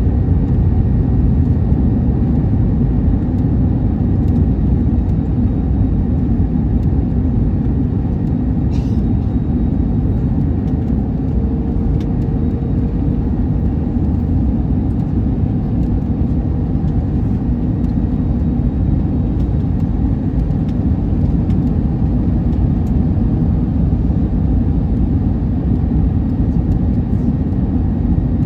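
Steady low rumble of engine and airflow noise inside the cabin of an Airbus A321neo airliner.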